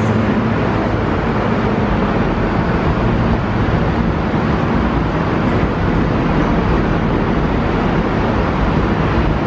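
Passenger train pulling out of a station: a loud, steady rumble of engine and rolling wheels.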